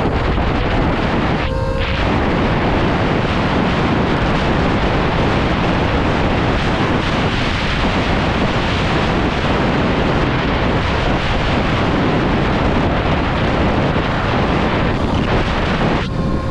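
Wind buffeting the microphone of a rider on an electric dirt bike at road speed, a steady loud rush with brief lulls about a second and a half in and near the end.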